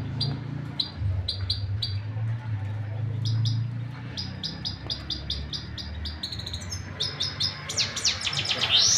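A caged finch singing: short high chirps repeated a few times a second, turning into quicker trills and downward-sweeping notes near the end. A steady low hum runs underneath.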